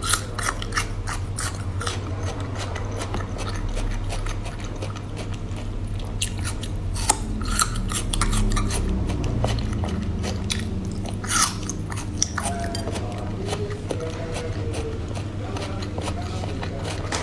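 Close-miked chewing of braised cowhide strips: a run of short mouth clicks and smacks as the skin is bitten and chewed. A steady low hum sits underneath.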